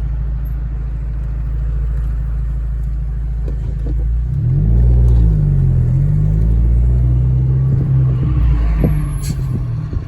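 Big-turbo VW Golf GTI Mk4 heard from inside the cabin: a steady low engine and road drone. About four seconds in, the engine note rises and falls and gets louder as the car accelerates.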